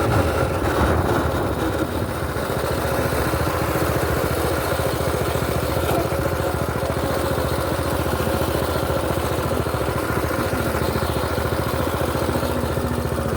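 Mini bike's small engine running steadily at an even speed.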